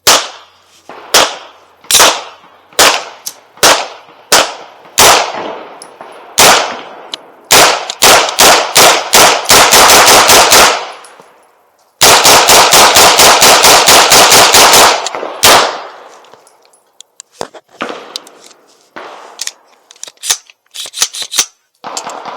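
Aero Precision EPC 9 9mm pistol-caliber carbine fired semi-automatically through a magazine: single shots about a second apart at first, then quicker strings, with a rapid run of about a dozen shots around the middle and fainter scattered shots near the end. It cycles every round with no stoppage, the check of its replacement Aero Precision bolt carrier group coming out all good.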